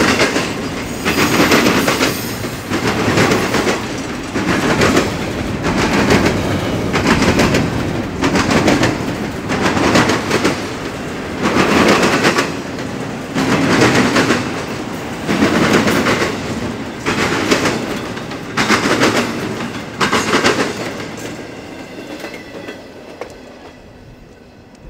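Freight train cars running fast over a railroad diamond, the wheels pounding the crossing in a regular clickety-clack, with a loud surge about every two seconds as each car's trucks cross. The last cars clear a little after twenty seconds in and the sound fades away.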